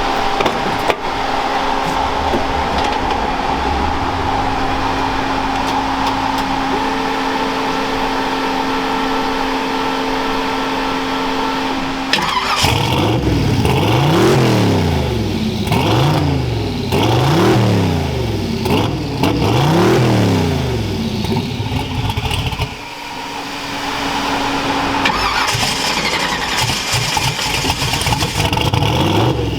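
Ford Cortina's twin-turbo LS V8 running at idle, then revved up and down repeatedly, about five or six rises and falls a second and a half apart, before settling back. It is being run to diagnose why the engine keeps cutting out and won't rev up.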